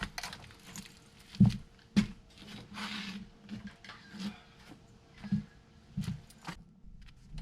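Scattered light knocks and clicks of metal parts and tools being handled at a truck's front wheel hub, with sharper knocks about one and a half and two seconds in and again near five and a half and six seconds.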